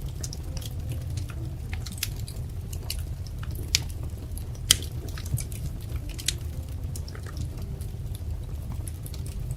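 Wood fire crackling: scattered sharp pops and snaps over a steady low rumble of burning, the loudest two pops coming about four and five seconds in.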